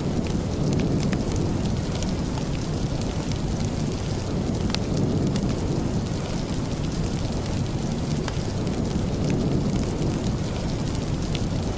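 Steady rain with a deep, even rumble underneath and scattered small ticks of drops or crackles.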